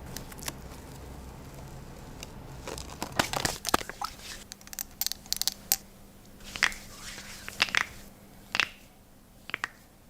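Hands being dried with a towel: irregular short bursts of rustling and crinkling.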